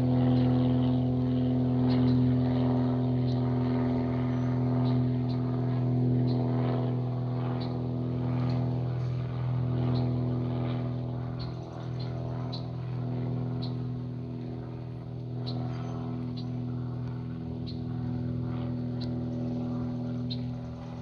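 Steady engine drone with a fixed pitch, slowly getting quieter over the stretch, with faint light ticks above it.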